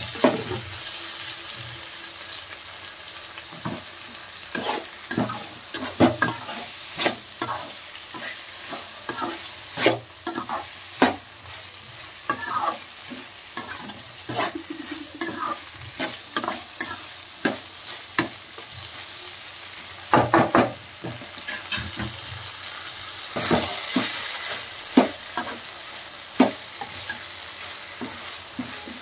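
Onions, green chillies and chopped tomatoes sizzling in oil in a kadai while a slotted metal spatula stirs and scrapes them against the pan, giving irregular scrapes and knocks over a steady sizzle.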